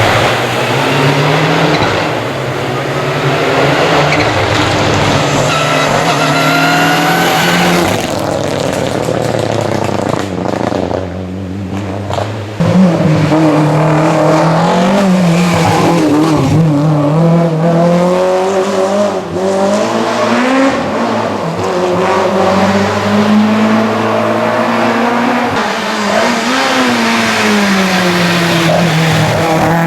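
Historic rally cars driven hard on a stage: engines rising in pitch as they accelerate and dropping back under braking, in several shots cut together, with sudden changes about a quarter and about two fifths of the way through.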